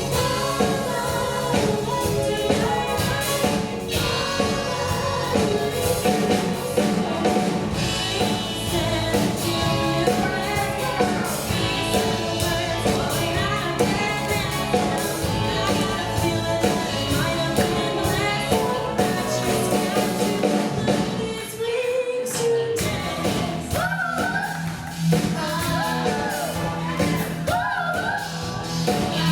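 A song performed live by singers with band accompaniment. The music drops away briefly about two-thirds of the way through, then the singing and band come back in.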